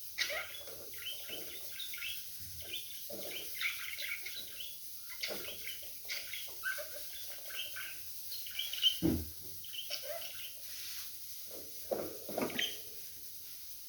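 Budgerigars chattering and warbling: a busy run of quick chirps and squawks, with a louder squawk about two thirds of the way through.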